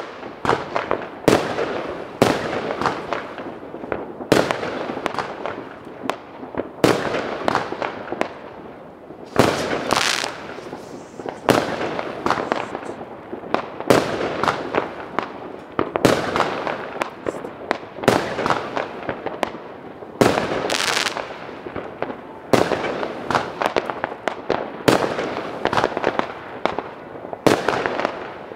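Fireworks and firecrackers going off in a steady barrage: many sharp bangs and cracks overlap one another, with a loud bang every second or two.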